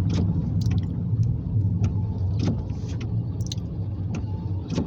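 An engine idling with a steady low rumble, with scattered short sharp ticks over it.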